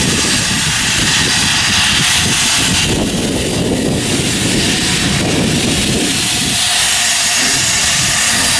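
Steam locomotive hissing steam steadily, over a low rumble.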